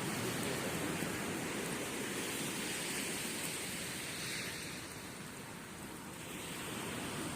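Sea waves washing up on a beach: a steady rush that eases off about five seconds in and builds again near the end.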